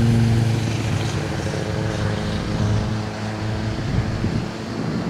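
Passing aircraft: an engine hum sliding slowly down in pitch and fading away over a steady rush of noise. Gusts of wind on the microphone come in near the end.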